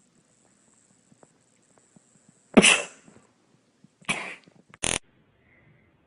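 A pet sneezing three times in quick succession, the first sneeze the loudest.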